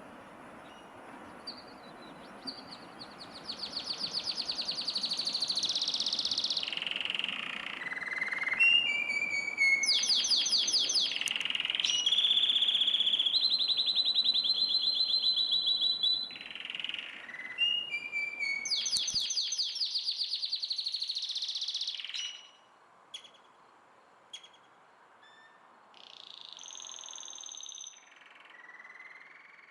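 A songbird singing a long, varied song: runs of rapid trills and repeated notes that jump from one pitch to another, over a steady background hiss that drops away about two-thirds of the way through.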